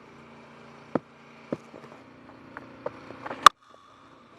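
Cricket ground stump-mic sound: a steady low hum with a few scattered knocks, then the sharp crack of a bat striking the ball about three and a half seconds in. The sound cuts off abruptly just after the hit.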